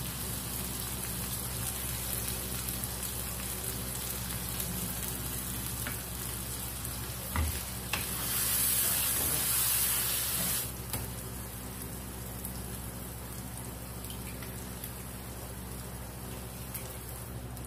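Wet onion-tomato masala sizzling steadily in a non-stick karahi. About eight seconds in it is stirred with a wooden spatula and the sizzle grows louder and hissier for a couple of seconds, just after a light knock.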